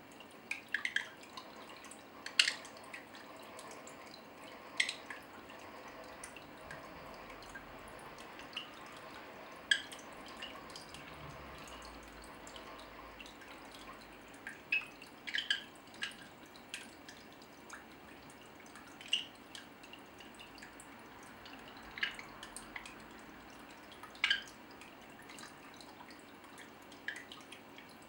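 Water dripping: irregular single drops plinking, some in quick clusters, over a faint steady background.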